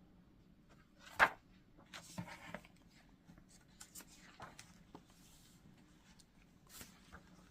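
Paper pages of a picture book being handled and turned: a few short rustles and taps, the loudest about a second in.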